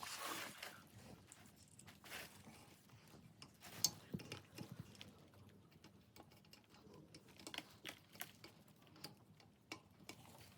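Faint, scattered clicks and taps of stand fan parts being handled and fitted together, with near silence between them.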